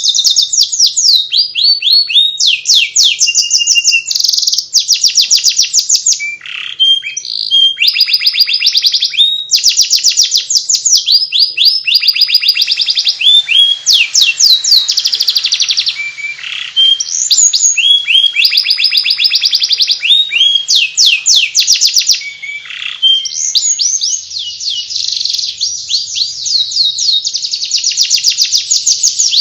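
Domestic canary singing in the fast chattering 'ngeriwik' style: an almost unbroken stream of high, rapid twittering trills made of quick repeated sweeps, with only brief pauses between phrases.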